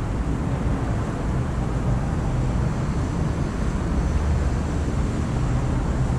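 Steady low rumble of outdoor background noise with a fainter hiss above it, unbroken throughout.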